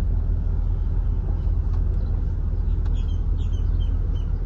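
2006 Corvette C6's 6.0 L LS2 V8 running steadily through catless headers and a Corsa cat-back exhaust, a deep even rumble with no revving.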